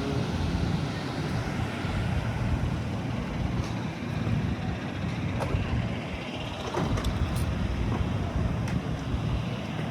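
Steady low rumble of a truck engine running, with a few faint clicks.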